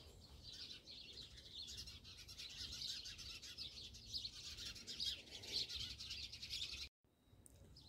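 Faint chirping of small birds, a busy run of rapid high chirps that cuts out briefly near the end.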